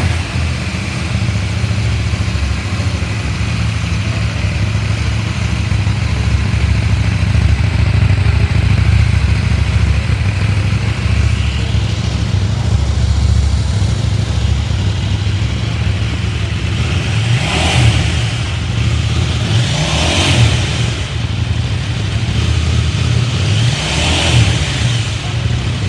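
KTM 790 Duke's 799 cc parallel-twin engine running at a steady idle, with three short throttle blips in the later part.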